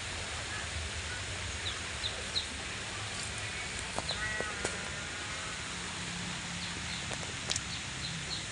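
Short high chirps of falling pitch, repeated at irregular intervals, and a brief animal call about four seconds in, over a steady hiss.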